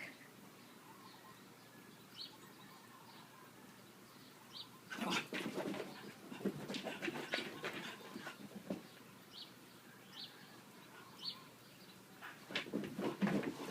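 English bulldog puppy making noisy dog sounds in two bouts, one about five seconds in lasting several seconds and another near the end, with a few faint sharp ticks in between.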